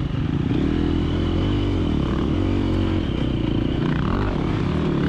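KTM 350XC-F dirt bike's single-cylinder four-stroke engine running under load, its revs rising and falling repeatedly as the throttle is worked.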